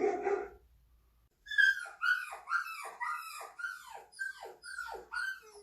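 A pulsed dog-like sound ends about half a second in; after a short pause comes a run of about nine high dog yelps, each sliding steeply down in pitch, roughly two a second.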